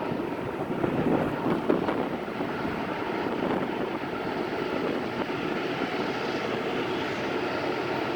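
Train rolling past close by: a steady rumble and rattle of the passing cars.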